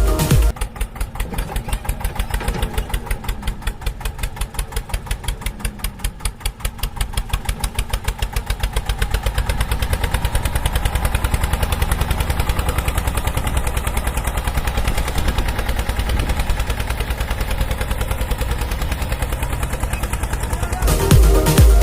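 Tractor-type engine running with a fast, even putter; the beats blur into a more continuous sound about halfway through.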